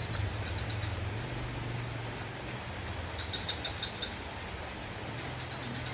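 Steady rain falling, with a low hum underneath that fades out partway through and comes back near the end. A brief run of quick, high ticks comes about three seconds in.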